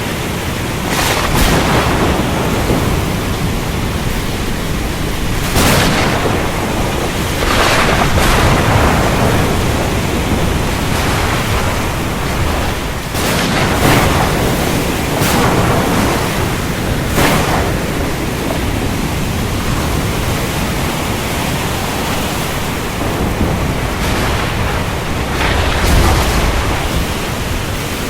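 Heavy rain falling steadily in a thunderstorm, with a sharp crack of thunder every few seconds and a deeper rumble near the end.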